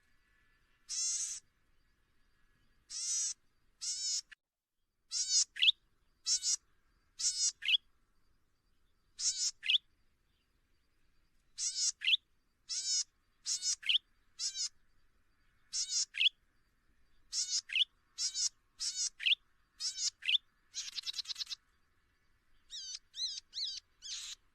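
A small songbird calling over and over, in short high chirps about once a second. Many of the chirps end in a quick rising note. Towards the end comes a faster, denser run of notes.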